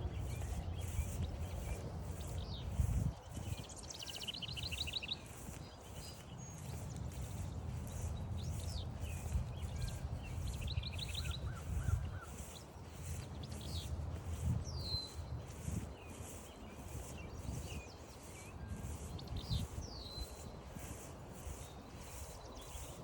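Several wild birds calling and singing, including two rapid trills of quick repeated notes, over evenly repeated footsteps on the trail.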